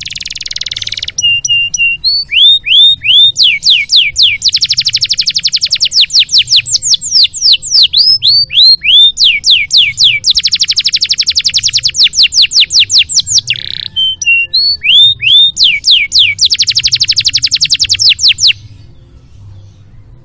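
Domestic canary singing a long, loud song: a short harsh note, then very fast trills alternating with runs of rising whistled notes, stopping suddenly about two seconds before the end.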